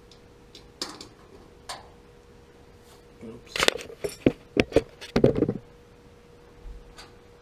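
Small metal parts and tools clinking and rattling: a couple of light clicks, then a quick run of sharp metallic clinks lasting about two seconds, starting about three seconds in. A faint steady hum runs underneath.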